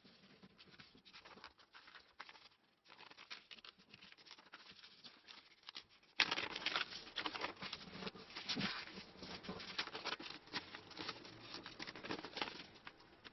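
Sheet of paper being handled and folded, with dense, irregular crinkling and crackling that gets suddenly louder about six seconds in.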